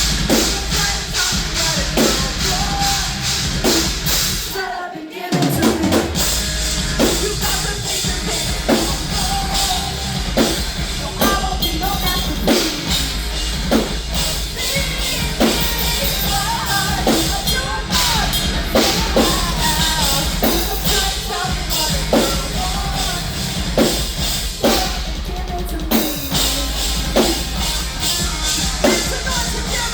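Live rock band playing, with a drum kit driving a steady beat of bass drum and snare. The band cuts out for a moment about five seconds in, then comes back in.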